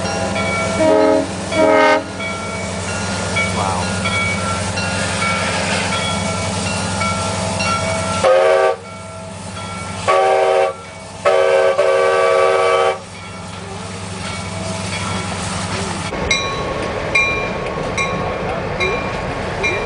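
A diesel locomotive passing with its engine running, blowing its air horn in two short blasts and then three longer ones, the last held longest. A bell rings steadily about twice a second underneath.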